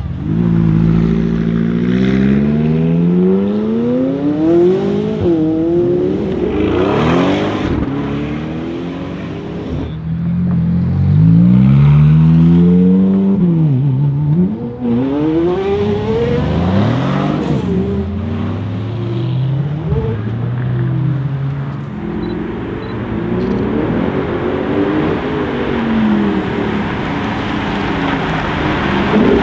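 Several performance cars accelerating past one after another, their engines revving up through the gears, the pitch climbing and dropping at each shift. Among them is a Ferrari F430 Scuderia's V8 pulling away.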